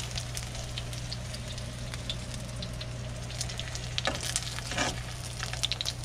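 Egg rolls frying in hot grease in a shallow pan, a steady sizzle full of small crackling pops. The sizzle flares twice, about four and five seconds in, as metal tongs move an egg roll in the oil.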